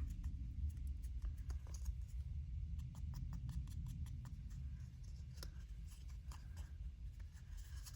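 Index card being handled and folded by hand: faint, scattered light clicks and paper rustles over a low steady hum.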